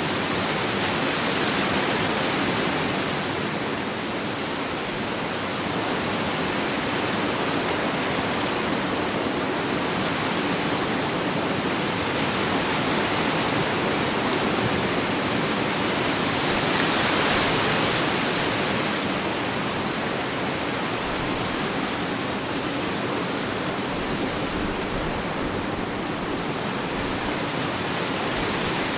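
Ocean waves washing onto a tropical beach: a steady rush of surf that slowly swells and ebbs, with one louder wave about two-thirds of the way through.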